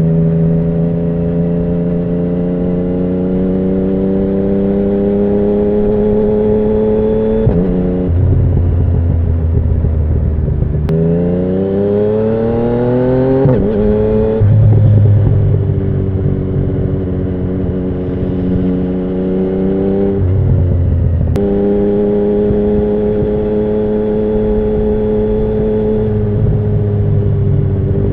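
2017 Yamaha MT-09's inline three-cylinder engine running through an Akrapovic Racing Line carbon full exhaust. For the first seven seconds or so its pitch climbs slowly as it cruises. It then drops to a low steady note, revs up steeply about eleven seconds in, and settles back into steady running, with its pitch falling and rising again.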